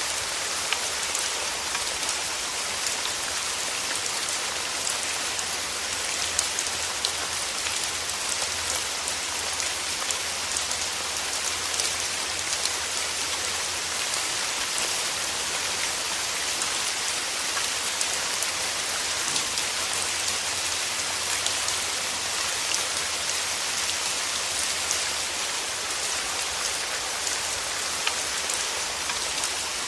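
Steady rainfall with many small drops pattering on a surface, an even hiss with fine ticks of individual drops.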